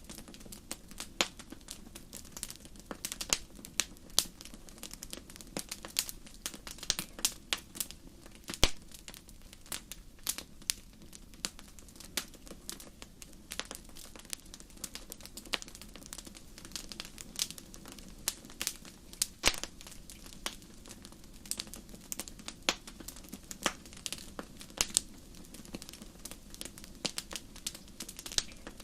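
Wood fire crackling in a fireplace: irregular sharp pops and snaps, several a second, over a low steady hiss of the burning.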